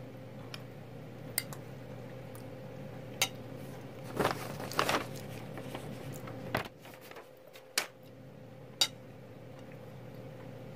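Scattered light clinks of cutlery against a dish, with a louder clatter about four to five seconds in, over a faint steady hum.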